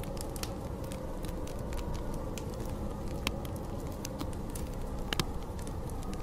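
Wood fire crackling with frequent sharp pops, two of them louder, over a steady low rush of storm wind.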